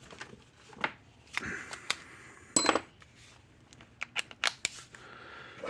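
Scattered sharp clicks and light metallic clinks of a drill bit adapter and small metal parts being handled on a workbench. One clink about two and a half seconds in rings briefly.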